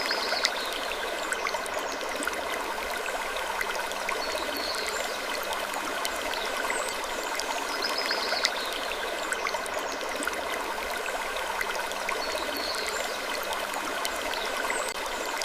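Steady rushing, water-like noise with many small scattered clicks and a faint high squeak every few seconds.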